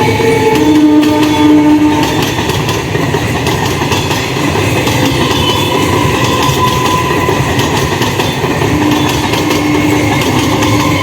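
EMU local train running past close by, its wheels clattering over the rail joints. A steady low horn sounds about half a second in and again near the end, each for a second or two.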